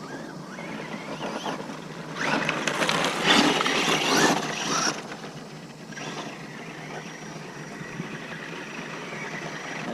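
Brushless-powered Traxxas Rustler RC truck driving on dirt: its electric motor whines up and down with the throttle, and a louder stretch of tires scrabbling over the dirt comes about two to five seconds in.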